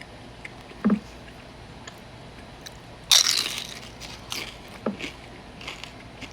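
Close-up eating sounds of crisp fried Mexican food. A dull thud comes near one second in. About three seconds in there is a loud crunching bite, followed by softer chewing crunches.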